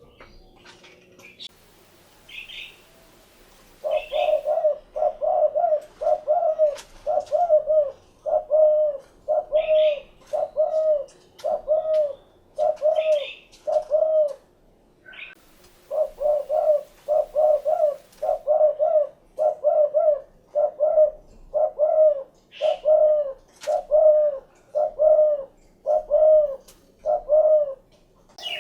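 Spotted dove (derkuku) cooing: a long series of short, evenly spaced coos, about one and a half a second, broken by a pause of a couple of seconds in the middle. A few short, higher chirps from other small birds come between.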